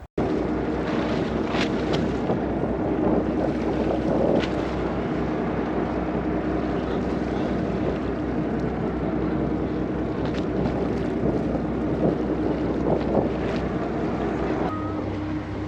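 An engine running steadily with a constant droning hum, wind buffeting the microphone.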